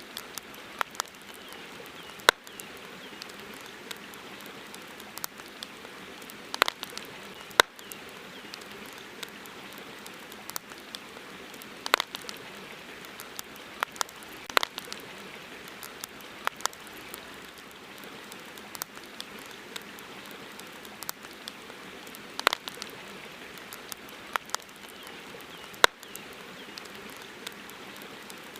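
Wood campfire crackling: sharp irregular pops every second or two over a steady soft hiss.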